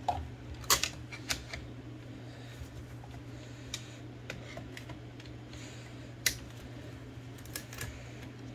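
Olivetti Linea 98 typewriter carriage and guide gear clicking at uneven intervals as the mechanism is worked by hand, with about a dozen sharp clicks. The clicks come from the not-yet-aligned guide gear, which still has to be adjusted.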